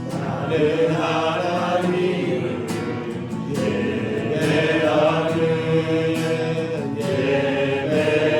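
A group of voices singing a Korean worship song together in long, drawn-out notes, with guitar accompaniment.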